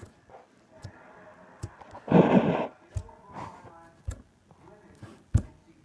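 Homemade flour-and-dish-soap slime being handled, squished and stretched, giving scattered sticky clicks and pops, with a louder half-second burst of noise about two seconds in.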